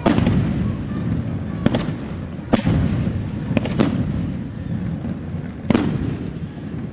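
Fireworks exploding in a New Year's display: about six sharp bangs at uneven intervals, two of them close together near the middle, over a continuous low rumble of further bursts.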